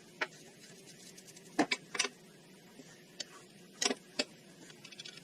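Tools and parts being handled, with about seven sharp clicks and taps: one near the start, a cluster in the middle, and a pair near the end.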